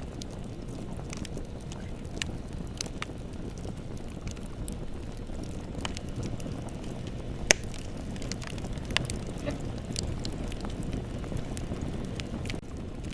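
Bonfire burning: a steady low rumble of flames with scattered crackles and pops, the loudest pop about seven and a half seconds in.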